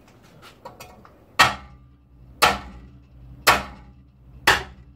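Four hammer blows on metal, about a second apart, each with a short ring: tapping a stuck part to knock it free. A few faint clicks come before the first blow.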